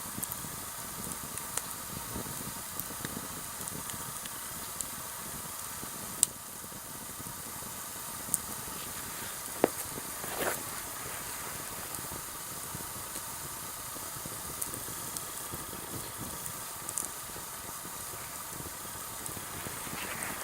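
Sawtooth oak firewood burning in a campfire: a steady hiss with scattered sharp crackles and pops, the loudest three about six, eight and nine and a half seconds in.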